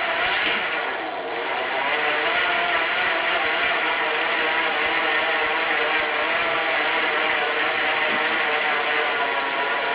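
Rear freewheel hub on a Giant Anthem X3 mountain bike, buzzing steadily as the wheel freewheels and the pawls click over the ratchet ring.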